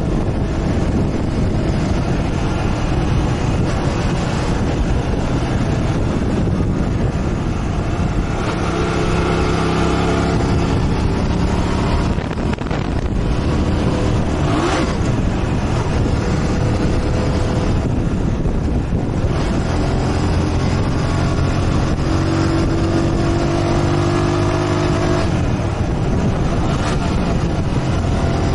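Motorcycle engine running under way, its note rising and falling with the throttle over a steady rush of road and wind noise.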